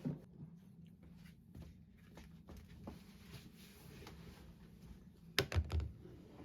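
Light, scattered clicks and taps of small objects being handled in a small room, over a low steady hum, with a short cluster of louder knocks about five and a half seconds in.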